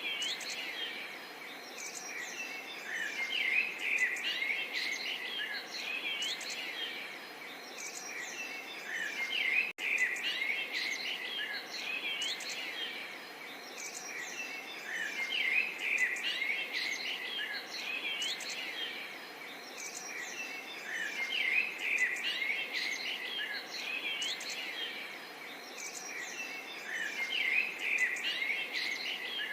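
Many birds chirping and singing at once, a dense chorus of overlapping chirps and trills that swells and ebbs every few seconds, with one very brief dropout about a third of the way in.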